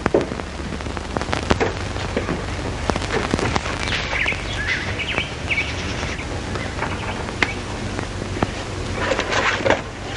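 Birds chirping in short up-and-down calls for a few seconds around the middle, over the steady hiss and crackle of an old film soundtrack, with some knocks and rustling near the end.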